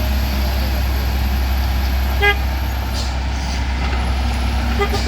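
Heavy vehicle engine running steadily with a low rumble, and a short horn toot about two seconds in and another brief toot near the end.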